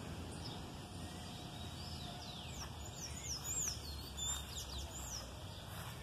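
Small birds chirping: a run of short, quick falling notes from about two to five seconds in, over a steady low outdoor rumble.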